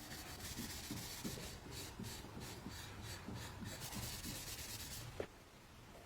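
Faint rhythmic rubbing strokes by hand on a surface, about two to three a second, like hand sanding. The strokes stop about five seconds in with a single light knock.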